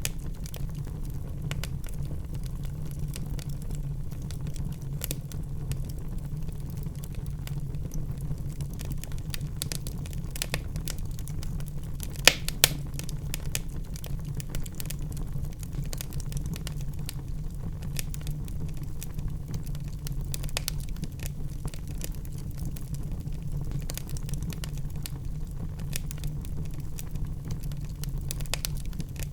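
Wood fire burning in a fireplace: a steady low rumble of the flames with scattered sharp crackles and pops, the loudest pair of pops about twelve seconds in.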